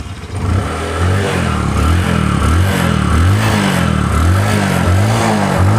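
Bajaj Discover 125 single-cylinder four-stroke motorcycle engine running just after starting, its throttle blipped over and over so the pitch rises and falls about once a second. The seller calls it a flawless sound, with no smoke and no oil burning.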